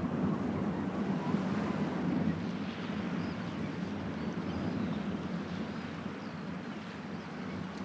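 Wind buffeting the microphone over the wash of surf, a steady rough rumble. A few faint high calls come through about three seconds in.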